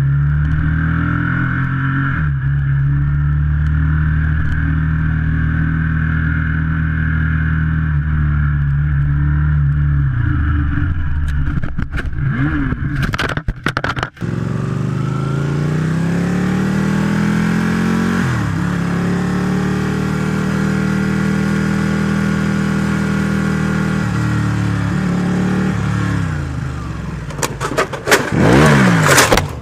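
Ducati Panigale sport bike's engine pulling hard through the gears, its pitch climbing and then dropping at each shift, about 2, 11 and 18 seconds in. A short break with clicks comes around 12 to 14 seconds, and near the end there is a loud, erratic burst of sharply rising and falling revs and noise.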